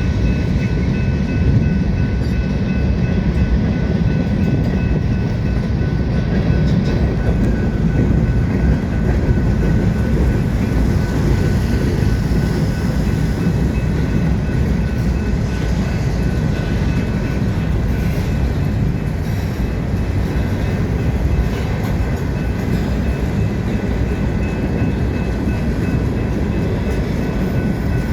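Freight train cars rolling past on the rails: a steady, heavy rumble of wheels on track, with a faint high steady ring over it.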